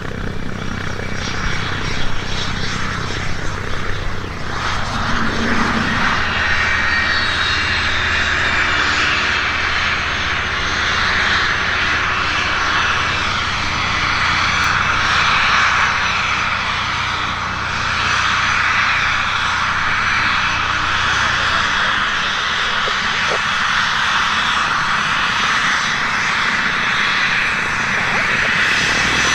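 Cessna 525 Citation business jet's twin Williams FJ44 turbofan engines running as it arrives: a steady jet rush with a thin high whine that slowly falls in pitch.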